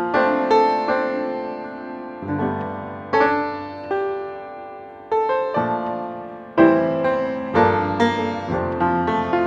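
Calm solo piano music: notes and chords struck about once a second, each ringing and then fading.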